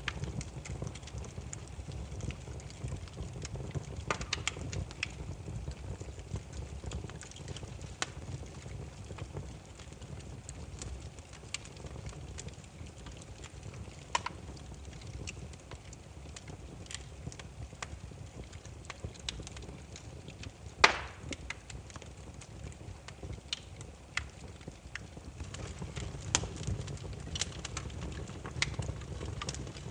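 Burning firewood crackling: scattered sharp pops and snaps over a low, steady rumble of flame. One pop about two-thirds of the way through is much louder than the rest, and the snaps come thicker near the end.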